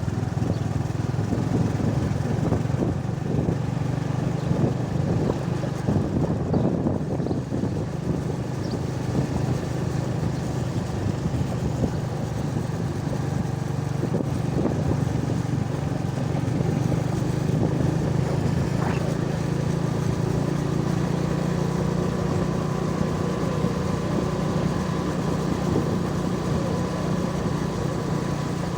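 A vehicle's engine running steadily on the move, with road noise. Rattling jolts through the first several seconds give way to a smoother drone.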